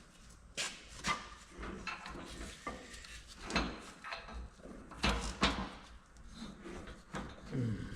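Irregular clinks and knocks of metal tools and parts being handled while a press and socket are set up on a CV joint. A short low falling sound comes near the end.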